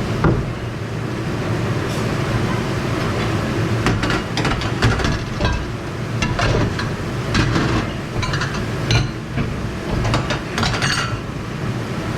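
Dishes, glasses and cutlery clinking and knocking together again and again while being handled, over a steady low rumble of kitchen machinery.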